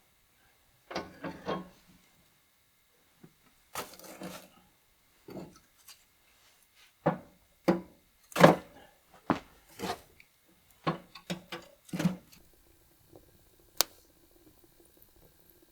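A series of sharp wooden knocks and thunks at irregular intervals, some in quick clusters of two or three, with a short scraping rub about four seconds in.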